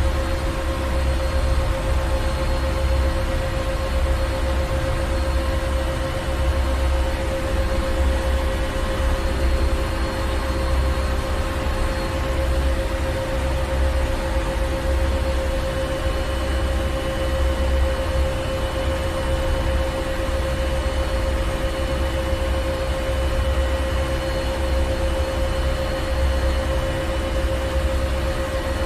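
Ship engine room machinery running steadily: a deep rumble that wavers slightly, under several steady humming tones and an even hiss.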